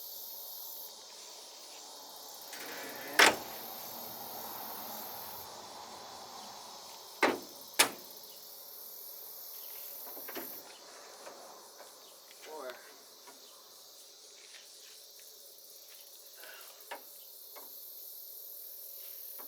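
Sharp metal knocks while handling the hood latch parts: one about three seconds in and a quick pair a few seconds later, with a few fainter clicks after. Insects chirp in a high, steady trill that comes and goes behind them.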